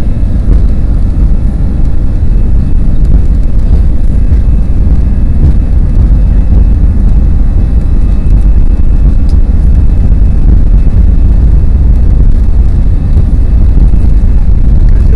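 Airliner's jet engines at takeoff power, heard from inside the cabin during the takeoff run: a loud, steady, deep rumble with a rushing noise over it.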